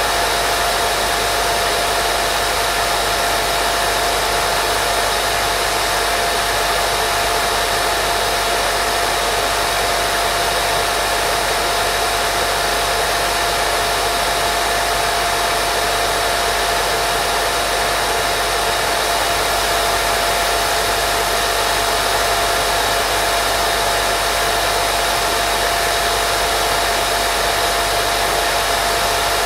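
Steady, unbroken white noise for baby sleep, with a constant hum-like tone running through it, like a hair dryer's whine.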